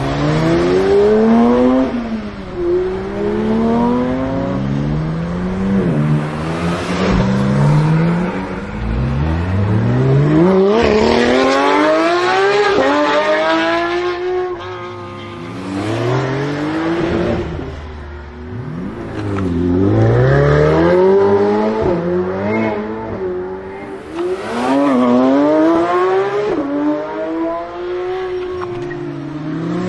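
High-performance supercar engines accelerating hard through the gears. The pitch climbs steeply, drops at each upshift and climbs again, over several runs one after another.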